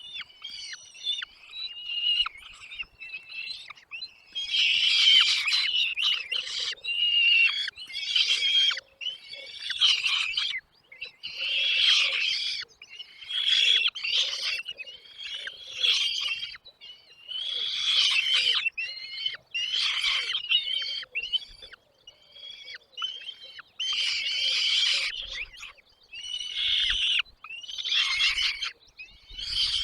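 Nestling birds begging with bursts of high, rapid chirping, a new burst every second or two.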